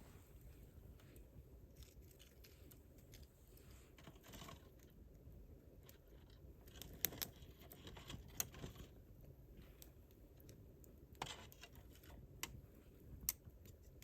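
Wood campfire crackling faintly: irregular sharp pops and snaps over a soft low rush of the flames, with the loudest pops coming in the second half.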